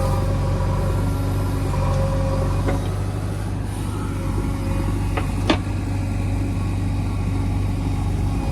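JCB 3DX backhoe loader's diesel engine running steadily, with a sharp knock about five and a half seconds in.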